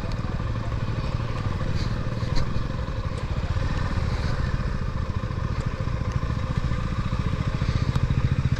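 Suzuki V-Strom SX 250's single-cylinder engine running at low revs, a steady pulsing beat that grows a little louder near the end, as the motorcycle is moved slowly into a parking spot.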